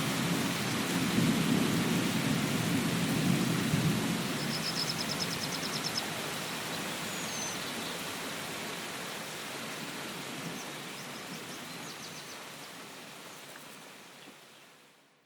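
Steady rain falling, with a low rumble of distant thunder in the first few seconds and a few short, high chirping trills in the middle. The whole sound fades out near the end.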